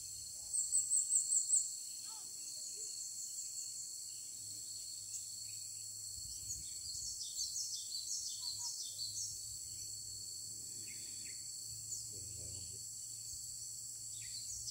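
Small birds calling high and thin: a rapid, loud run of very high chirps about half a second in, then short repeated descending notes. A steady high insect drone runs underneath.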